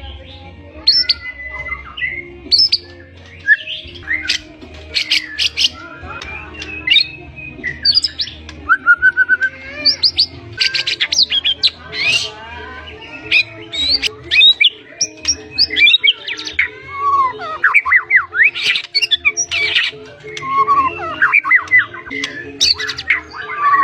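White-rumped shama singing without pause: a fast, varied stream of loud whistles, rising and falling sweeps, trills and sharp chattering notes.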